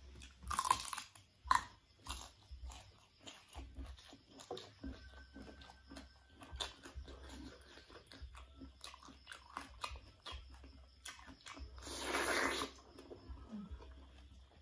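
Close-up mouth sounds of biting and chewing raw young pineapple and other unripe fruit: a run of crisp crunches, with a louder, longer crunch about twelve seconds in.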